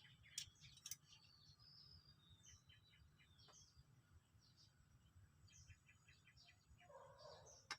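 Faint birds chirping in short, repeated calls, with two sharp clicks close together near the start.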